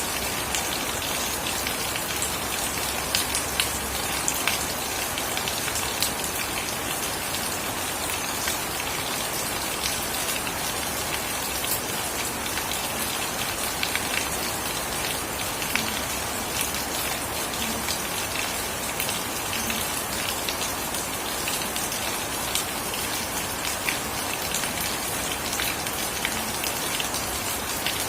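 Steady rain falling, a dense even hiss with many separate drops ticking sharply on hard surfaces.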